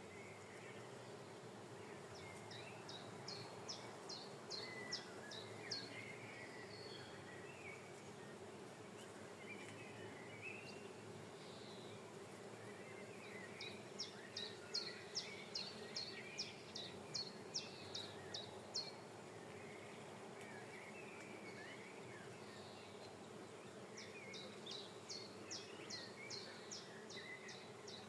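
Bees buzzing in a flowering linden tree, a steady low hum. A bird sings three runs of quick, repeated high notes over it, and other birds chirp now and then.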